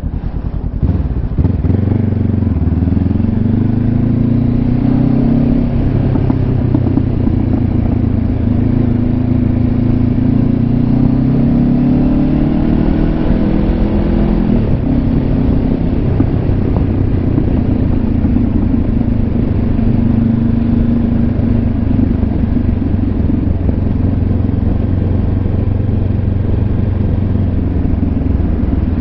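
Honda CB500X's parallel-twin engine pulling away under way, heard from inside the rider's helmet with wind noise. Its pitch climbs for the first few seconds, drops at a gear change about six seconds in, climbs again until about fourteen seconds, then holds steady at cruising speed.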